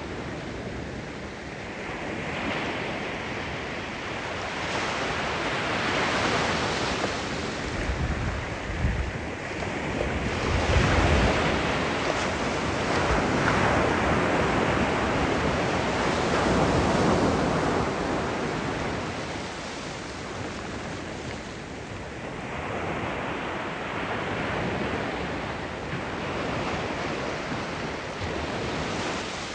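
Sea waves breaking and washing ashore, the surf swelling and fading in slow surges every few seconds.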